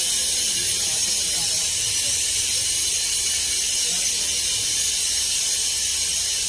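Steady high hiss of a passenger train in slow motion, heard at an open door, with no distinct rhythm of wheel clicks.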